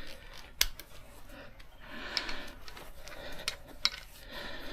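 Scattered sharp clicks and a stretch of light scraping from tools and parts being handled during brake work.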